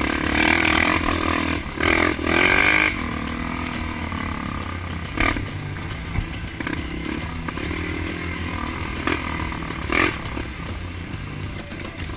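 Off-road trail motorcycle engine running, revving up and down for the first few seconds, then running more steadily, with a few sharp knocks.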